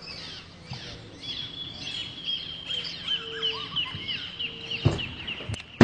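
Birds calling: a fast run of short, high, falling chirps, about three or four a second, over a high steady note, with two sharp knocks near the end.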